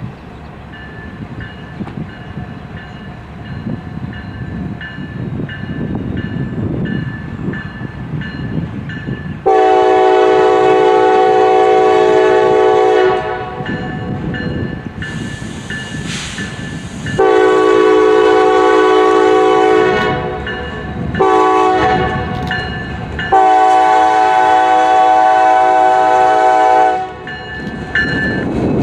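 A diesel freight locomotive approaches with a bell dinging steadily, then its air horn sounds the grade-crossing signal: two long blasts, a short one and a final long one. The engine rumble grows louder toward the end.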